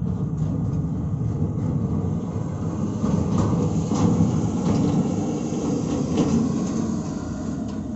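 Heavy truck running with a steady low rumble.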